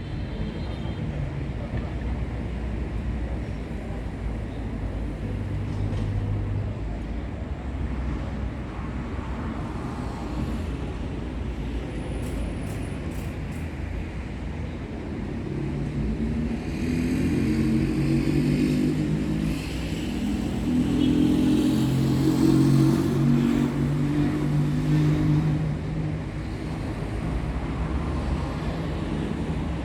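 Steady low rumble of a motor vehicle or road traffic, swelling louder for about ten seconds past the middle before settling back.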